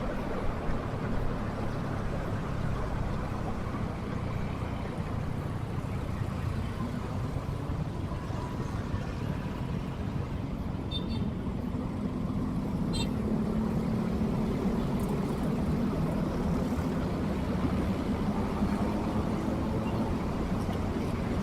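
Motorcycle engine running steadily while riding in traffic, with a dense road and traffic rumble. Two short high beeps come midway.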